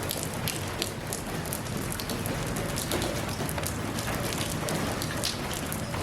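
Steady rain, a constant hiss with many individual raindrops striking close by as sharp ticks.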